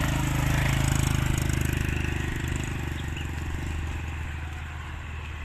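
A motor vehicle's engine running with a low steady hum that grows loudest about a second in, then slowly fades.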